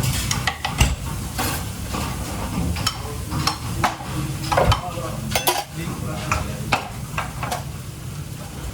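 Kitchen work: metal utensils and pans repeatedly clinking, knocking and scraping, over a steady hiss of frying.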